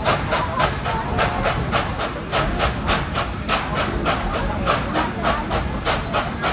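Narrow-gauge steam locomotive pulling its passenger train, with steady exhaust chuffs at about three to four beats a second over the rumble of the cars.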